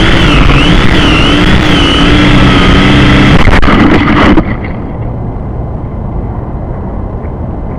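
Syma X5C-1 quadcopter's small electric motors whining, pitch wavering as they fight gusts, with heavy wind buffeting on the microphone. A little over halfway through the motors cut out abruptly, leaving only wind rumble: the battery dying.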